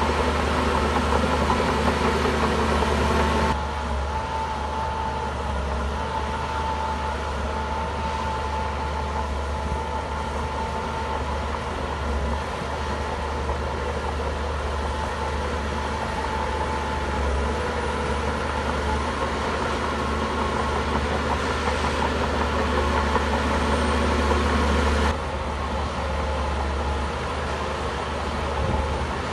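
Shantui bulldozer's diesel engine running steadily with a strong low hum. The sound drops abruptly about three and a half seconds in and jumps back up abruptly a few seconds before the end.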